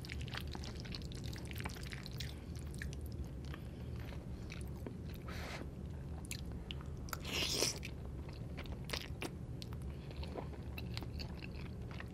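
Close-miked chewing and wet mouth clicks of someone eating Cajun fettuccine. There is one louder, longer sound about seven and a half seconds in.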